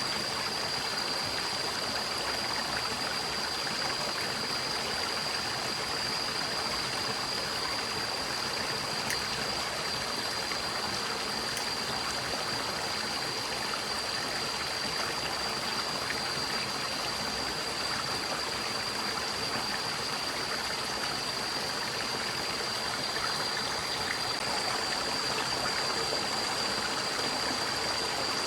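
A forest stream running steadily, with a continuous rushing and gurgling of water, and a steady high-pitched tone over it.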